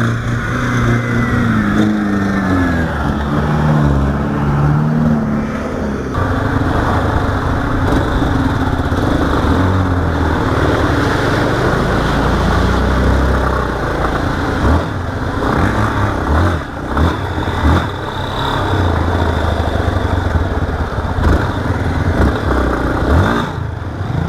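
Small single-cylinder trail motorcycle engine revving up and down for the first few seconds, then running over rough ground amid wind noise and rattling knocks.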